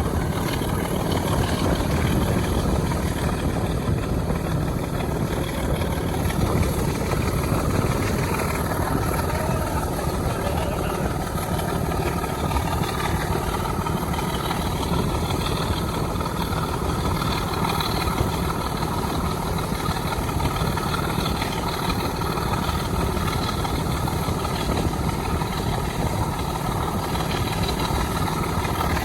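Heritage diesel locomotive's engine running hard under load, a loud, steady sound with no let-up.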